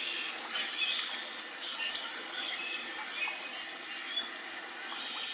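Small birds chirping and calling at a backyard feeder, many short high chirps over a steady hiss.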